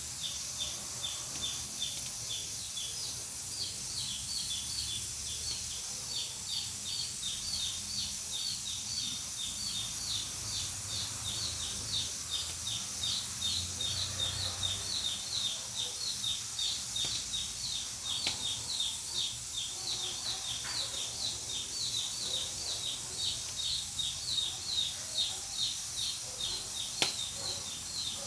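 Pressure cooker on a wood-fired stove letting off steam: a steady high hiss with a quick, regular pulsing chirp about three times a second. A couple of sharp pops come from the burning wood late on.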